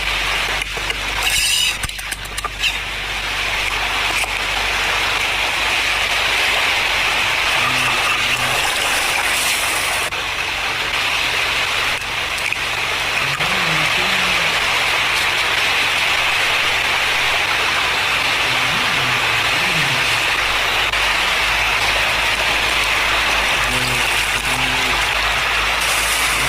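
Steady rushing noise throughout, with a few sharp clicks in the first few seconds.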